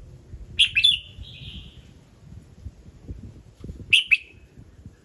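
Red-whiskered bulbul singing: a quick pair of sharp, clear notes about half a second in, followed by a short held whistle, then another sharp pair of notes near the end. A low rumble runs underneath.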